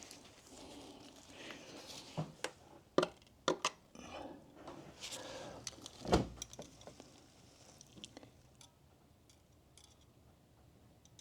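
A few short clicks and knocks, the loudest about six seconds in, from a metal engine-oil dipstick being slid into its tube and drawn out to read the oil level.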